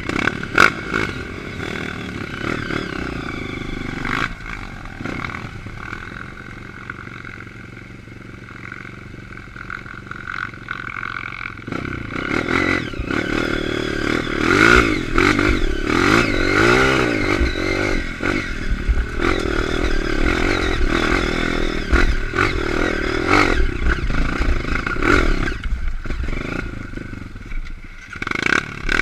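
Honda CRF230 dirt bike engine running, low and steady for about the first twelve seconds, then louder and revving up and down for most of the rest. Scattered knocks and clatter run through it.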